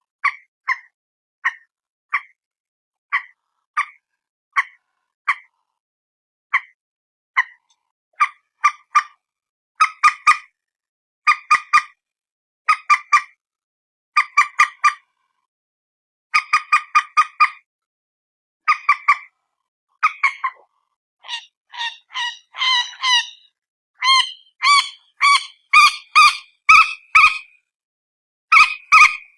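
Repeated short, honking calls of the bird known as peruk or mandar batu. At first they come as single notes spaced under a second apart. Later they run in quick clusters of two to four notes, and near the end the calls grow faster and more varied.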